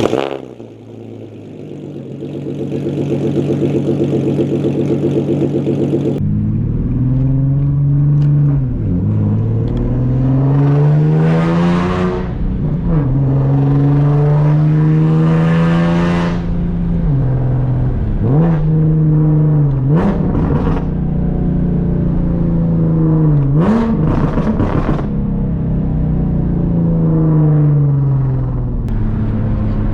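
Nissan 370Z's 3.7-litre V6 through a full Tomei exhaust, loud, accelerating hard through the gears: the note climbs with each gear and drops sharply at each upshift, several times over. It opens with about six seconds of a steady engine note.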